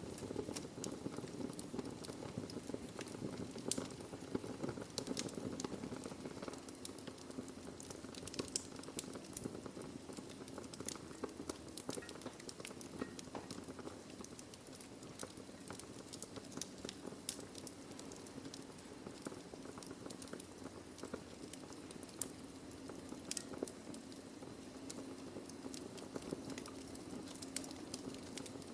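Wood fire burning in a fireplace: logs crackling with many small sharp pops over a low, steady rushing hiss.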